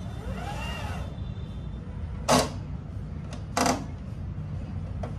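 A brief squeak that rises and falls, then two sharp knocks about a second and a half apart, from tools and parts being handled during photocopier repair, over a steady low hum.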